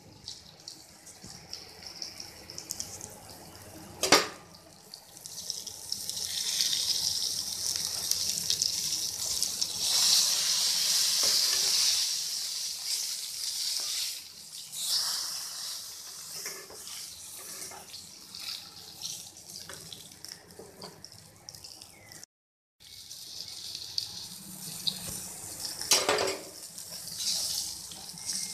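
Whole pointed gourds (parwal) sizzling as they fry in oil in a pan, a steady hiss that swells for several seconds near the start. A spatula knocks sharply against the pan twice, once early and once near the end.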